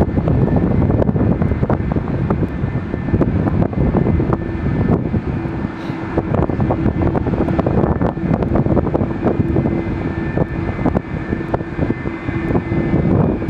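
Airplane engines running loud and close with a crackling rumble. A steady hum joins about four seconds in.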